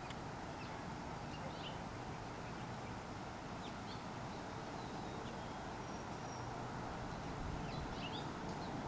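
Steady outdoor background noise with a few faint, short bird chirps scattered through it, a couple of them close together near the end.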